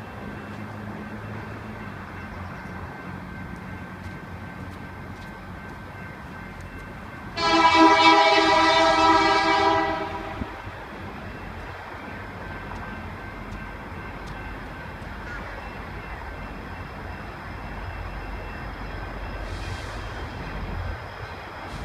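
Diesel locomotive air horn sounding one blast of about two and a half seconds, a multi-note chord, over the steady rumble of a moving train.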